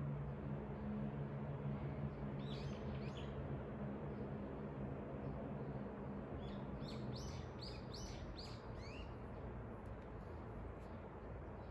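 Birds chirping: a short burst of chirps about two and a half seconds in and a longer run of quick chirps from about six and a half to nine seconds, over a steady background hiss.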